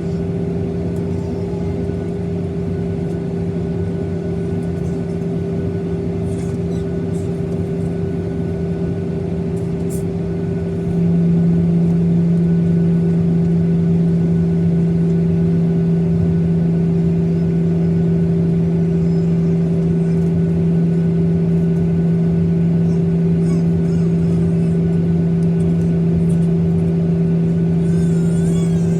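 Boeing 737-900ER's CFM56 jet engines heard from inside the passenger cabin: a steady drone with a low hum, which steps up in loudness about eleven seconds in and then holds.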